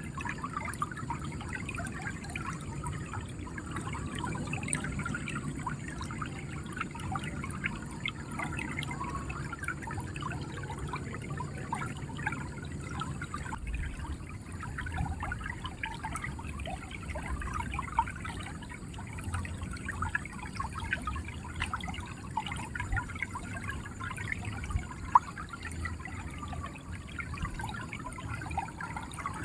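River water gurgling and splashing over stones in a steady, continuous flow, with a low rumble underneath.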